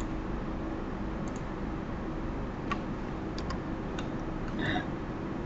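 A computer mouse clicking a handful of times at irregular intervals, over a steady low electrical hum.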